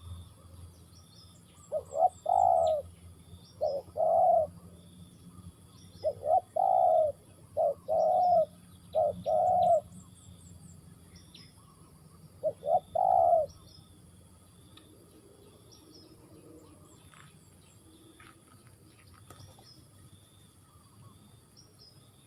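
Spotted dove cooing: six phrases, each a short note followed by one or two longer coos, through the first half, then it falls silent. Small birds chirp faintly in the background.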